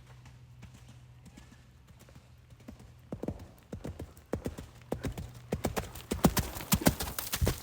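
Hoofbeats of a ridden warmblood horse, faint at first, then growing louder as the horse comes closer from about three seconds in, in a quick even rhythm.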